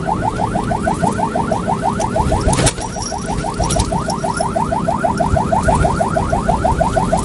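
A fast, machine-regular run of rising electronic chirps, about six or seven a second, like a car alarm's warble, over a low rumble.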